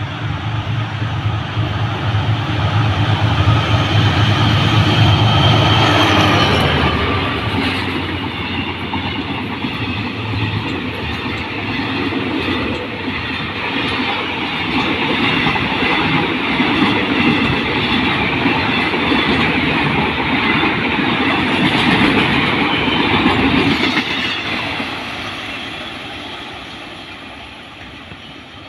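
Train No. 629 passing close by the platform. A steady low drone comes as the front goes by in the first six seconds or so. Then the wheels rumble and clatter on the rails as the carriages pass, and the sound fades away over the last few seconds.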